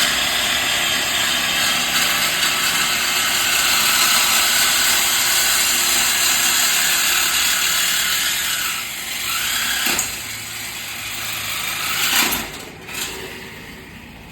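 A shop power tool working on the exhaust during a muffler delete, running with a loud, continuous high hiss for about eight seconds, then a few short sharp knocks near the end.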